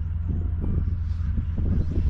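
Small motor ferry boat's engine running with a steady low rumble, with wind buffeting the microphone in irregular gusts. Faint bird chirps can be heard above it.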